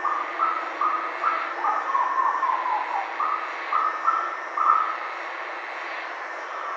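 Black-billed koel calling: a series of short "woo" notes about two a second, with a run that falls in pitch about two seconds in. The notes break off for about two seconds near the end, over a steady background hiss.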